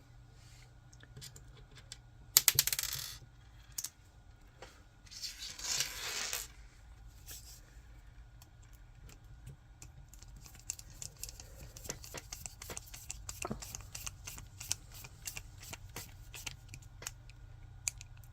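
Small screws and 3D-printed plastic parts being handled during assembly: a brief clatter of sharp clicks about two seconds in, a short rustle a few seconds later, then a long run of light clicks and ticks as the parts and screws are worked together.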